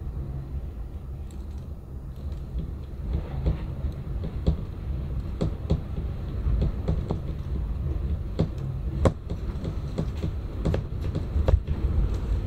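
Low, steady rumble of storm wind, with irregular sharp clicks and taps scattered through it, more frequent from about three seconds in.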